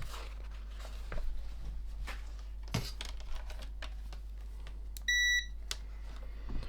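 A digital multimeter gives one steady high beep, about half a second long, near the end. Before and after it come a few light clicks of the test leads and handling on the bench, over a steady low hum.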